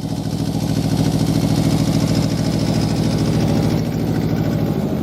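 Deutz D5206 tractor's three-cylinder, air-cooled diesel engine running steadily, with an even, rapid beat.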